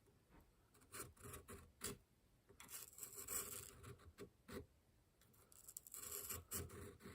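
Faint, irregular scraping strokes of a homemade checkering cutter, ground from a flat-bladed screwdriver, drawn by hand across wood to start checkering lines.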